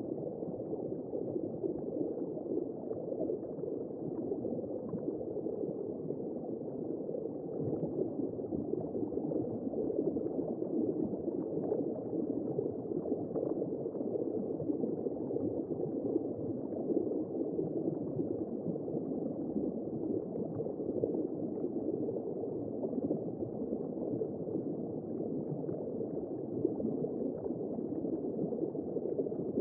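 Womb sound for soothing babies: a steady, muffled whooshing, gurgling noise with no high tones.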